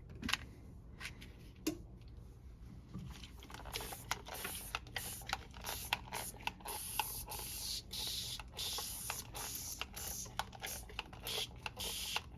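Hand-trigger spray bottle spritzing hydrogen peroxide solution onto a sheet of paper to saturate it. The spraying begins about three and a half seconds in as a run of short hissing spritzes, about one or two a second, with small handling clicks between them.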